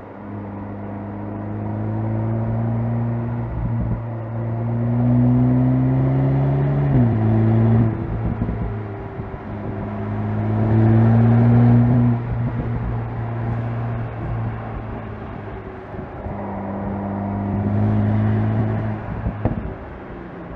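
2025 VW Golf GTI Clubsport's turbocharged 2.0-litre four-cylinder engine and exhaust pulling hard. The pitch climbs steadily, drops sharply at an upshift about seven seconds in, climbs again, then eases off.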